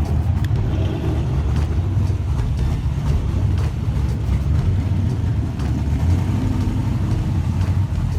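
Car's 5.0-litre engine running with a steady low rumble, holding an even pitch without revving up or down.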